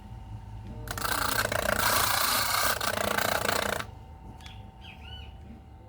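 A clamped power saw blade cuts through a wooden board for about three seconds, a loud rasping hiss. The motor runs steadily with a faint hum before and after the cut.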